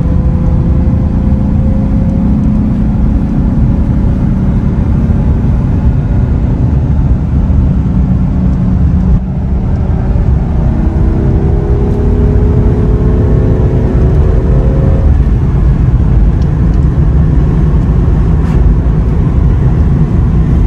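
Mercedes-Benz 280 S (W116) straight-six engine running as the car drives, its pitch rising slowly as it gathers speed, under a heavy low rumble. The sound breaks off abruptly about nine seconds in, then the pitch climbs again for a few seconds.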